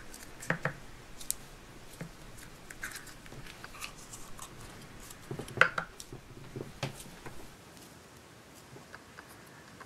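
Hands handling Play-Doh and small plastic toy pieces: scattered soft clicks and taps, the sharpest about five and a half seconds in and another about a second later.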